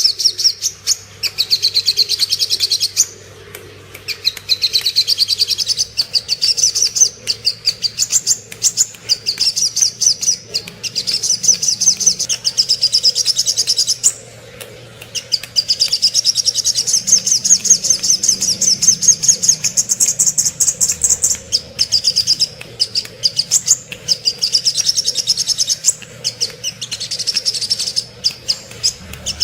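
Sogok ontong (little spiderhunter) song: long runs of rapid, high-pitched repeated chipping notes, broken by a brief pause twice. A faint steady hum lies underneath.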